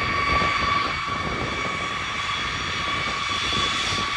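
Boeing B-52 Stratofortress's eight TF33 turbofan engines running: a steady high whine over a rough rumble.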